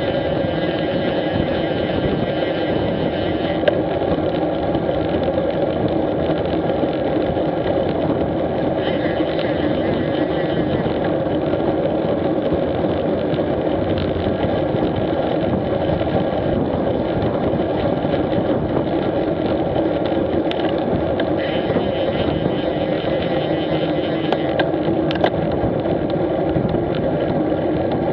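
Street motorcycle engine running steadily under way, with wind and road noise on the camera's microphone and a few light ticks near the end.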